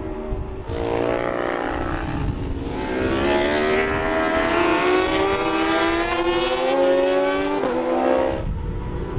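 Racing motorcycle engine accelerating hard at full throttle, its pitch climbing steadily. There is an upshift about two and a half seconds in and another near the end, before the sound drops away.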